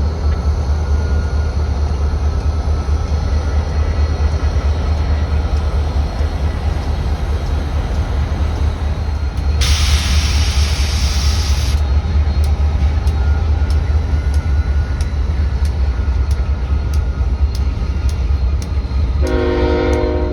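A train rumbling past with a burst of hiss about ten seconds in. After that, wheels click regularly over rail joints, about twice a second. A short train horn blast sounds near the end.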